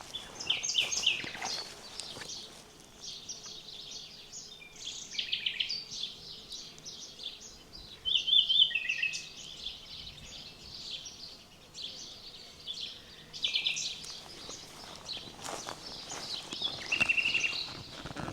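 Songbirds singing and calling, several overlapping songs of quick chirps and short trills, one after another, over a faint steady outdoor background.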